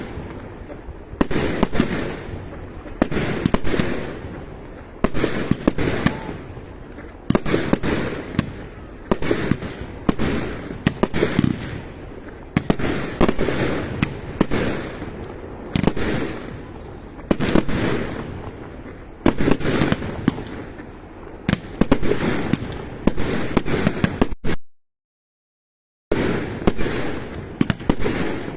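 Fireworks going off in a long series of bangs, about one every one to two seconds, each trailing off in a rumbling echo. The sound cuts out completely for about a second and a half near the end.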